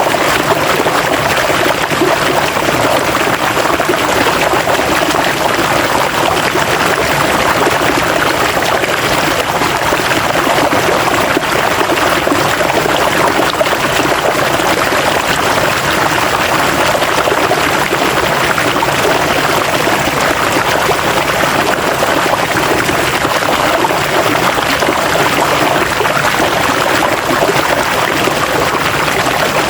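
River water flowing and splashing over rocks, a steady rushing without pause.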